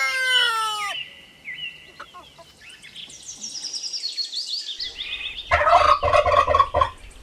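A rooster's crow trails off and ends about a second in, followed by faint high chirping. Then a domestic tom turkey gobbles loudly for about a second and a half near the end.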